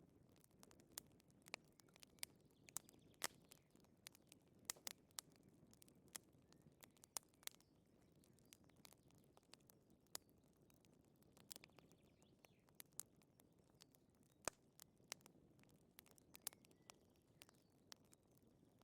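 Wood fire crackling in a fireplace: irregular sharp pops and snaps, a few much louder than the rest, over a faint low rush of burning.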